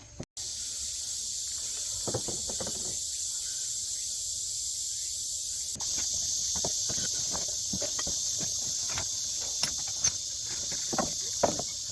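Insects chirring steadily in a dense high-pitched chorus, with scattered light clicks and knocks over it.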